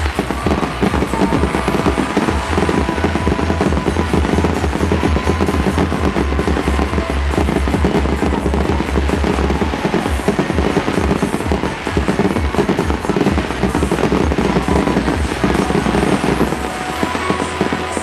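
Fireworks barrage: a dense, rapid run of bangs and crackles with a low rumble underneath, going on without a break.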